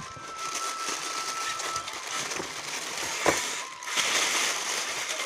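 Packaging rustling and crinkling as parts are handled and unwrapped, with one sharp knock a little past three seconds in.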